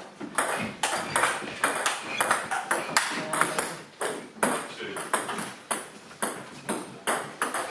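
Table tennis rally: the celluloid ball clicking off the bats and the table in a steady run of about two sharp, high clicks a second, with no break in play.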